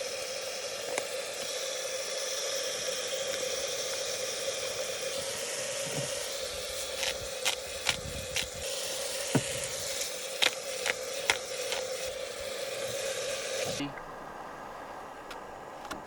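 Taco meat sizzling in a skillet on a single-burner camp stove, with sharp taps and scrapes of a spatula in the middle. The sizzle cuts off suddenly near the end.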